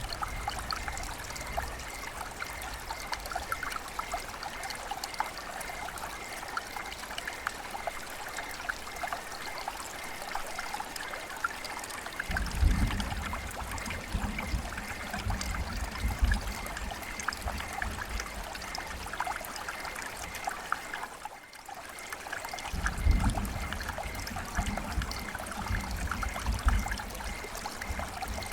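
River water flowing and trickling over stones, a steady babbling with fine splashes. Low rumbles come in about twelve seconds in and again near the end.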